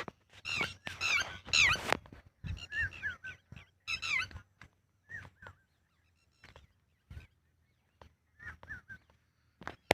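Red-wattled lapwing calling: a run of shrill, falling call notes, loudest in the first two seconds, then fainter groups of calls that thin out, with a few more near the end.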